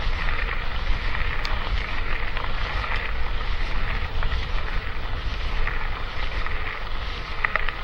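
Wind buffeting the microphone with steady rolling noise from an electric mountain bike being ridden, with a few small ticks over a constant hiss.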